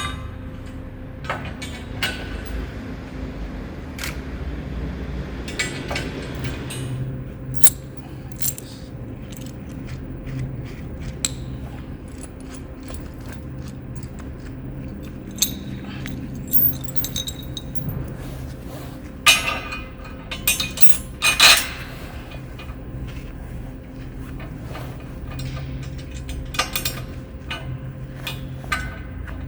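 Metal parts and hand tools clinking and knocking as a steel sawmill bed is put together, with a cluster of louder knocks about two-thirds of the way through, over a steady low hum.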